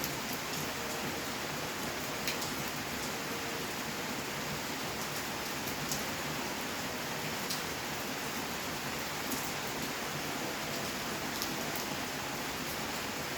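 Steady rainfall on surfaces, a constant even hiss with occasional sharper individual drop hits.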